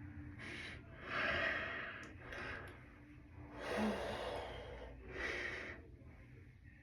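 A person breathing hard: about five separate audible breaths, each a short whoosh of air.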